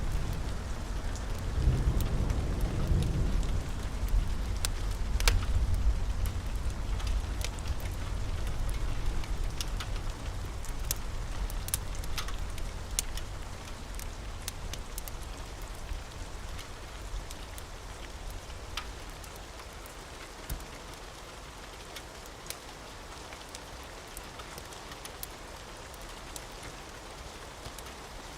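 Steady rain with a low rumble of thunder that swells in the first few seconds and dies away over about fifteen seconds. Scattered sharp crackles and pops of a wood fire in a fireplace run through it.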